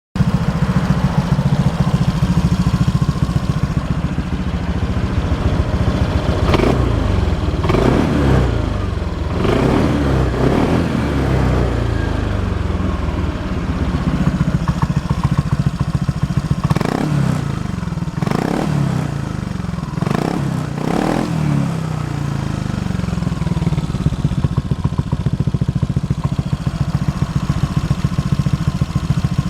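Honda PCX scooter's single-cylinder four-stroke engine idling through an aftermarket Luvias muffler, then revved in short blips that rise and fall back to idle: about four of them from six to eleven seconds in, and five more from about seventeen to twenty-one seconds in.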